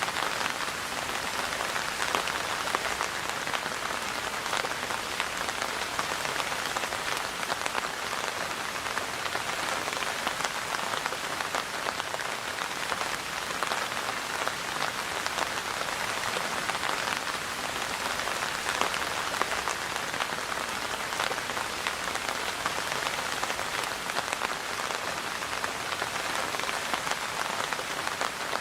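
Steady rain falling, a dense even patter of raindrops hitting a surface, with individual drops ticking through it.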